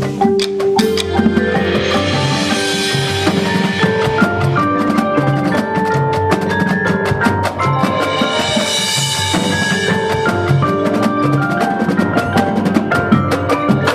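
Marching band music: held wind chords over drums and mallet percussion, with a swell of high hiss about two seconds in and again around nine seconds.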